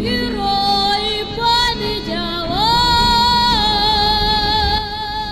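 A woman singing a Russian folk-style song over accompaniment, holding long notes and sliding up and down between them.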